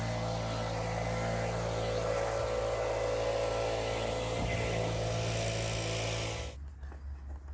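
Small petrol engine of lawn equipment running at a steady speed. About six and a half seconds in it stops abruptly, leaving a low hum.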